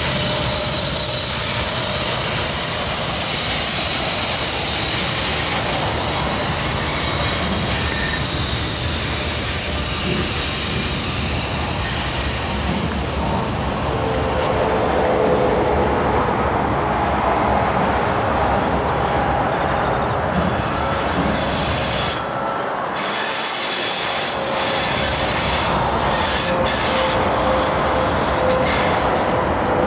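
Mixed freight train cars rolling through a curve, with their steel wheels squealing against the rail over a steady rolling noise. The squealing is high-pitched in the first half, and a lower squeal tone comes in about halfway through.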